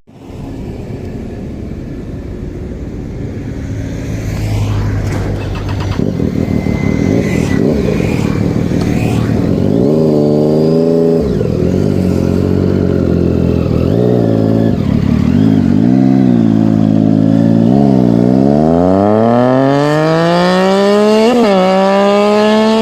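Engine revving in several short blips, then accelerating hard, its pitch climbing steadily for several seconds, with a brief jump near the end.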